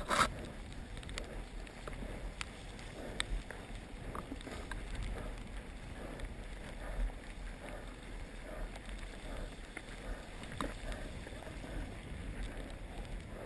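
Wind buffeting a helmet or bike-mounted camera's microphone during a fast mountain-bike descent, a steady rushing rumble with scattered clicks and rattles of the bike over rough ground and a louder knock at the very start.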